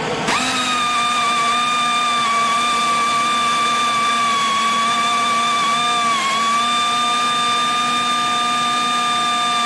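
Pneumatic angle grinder running flat out under air, a steady high whine that climbs in pitch as it spins up just after the start, with a brief sag about six seconds in.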